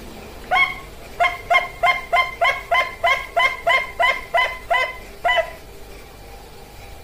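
Zebra dove (perkutut bangkok) singing: one coo, then a quick run of about a dozen short, even cooing notes, about three a second, stopping about five seconds in.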